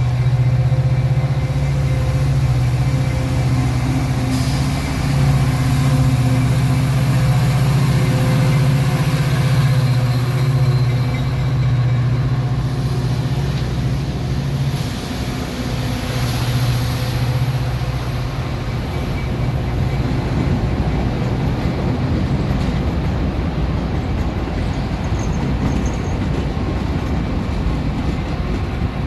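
Union Pacific train passing: a steady low diesel locomotive drone for about the first half, giving way to the rumble of the train's cars rolling by.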